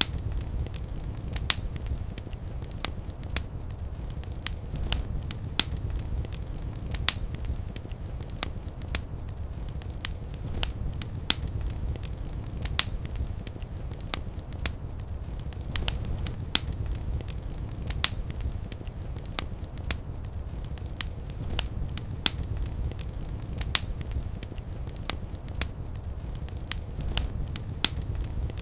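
Fire crackling in a fireplace: frequent sharp pops at irregular intervals over a steady low rumble of the flames.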